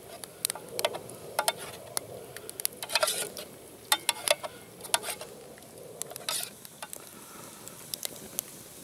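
Spoon stirring and scraping in a metal pot of chili con carne: irregular sharp clicks of metal on metal, with a couple of short scrapes.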